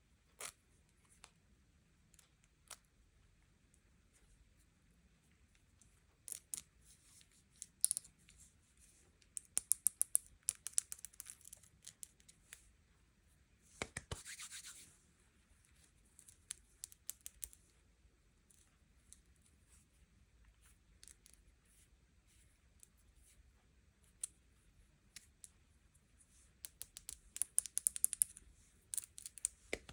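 Hands unboxing sweets and toys: scattered sharp clicks and taps of plastic packaging being handled, in quick clusters, with a short rustle of wrapping about halfway through.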